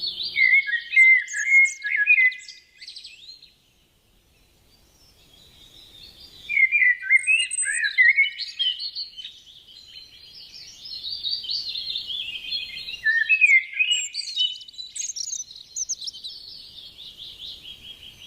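Canary singing long bouts of rapid warbling trills and chirps. The song breaks off about four seconds in and starts again a couple of seconds later.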